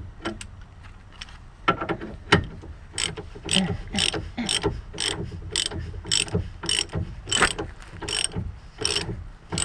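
Hand ratchet wrench clicking in repeated strokes, about two clicks a second, winding down a screw-type separator tool to pop a suspension joint apart.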